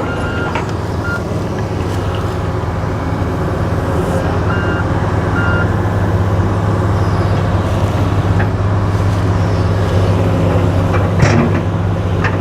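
Excavator's heavy diesel engine running steadily, with a few short high beeps of a backup alarm and a single knock near the end.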